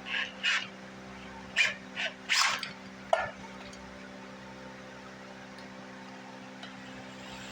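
A dog gives about five short barks and yips in the first three seconds, over a steady low hum.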